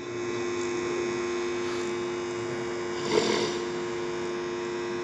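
Steady electrical hum made of a few constant tones, with one brief louder sound about three seconds in.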